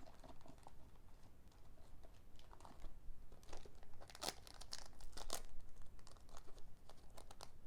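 Foil Pokémon booster pack wrapper crinkling and crackling as it is handled, in irregular bursts, loudest about four and five seconds in.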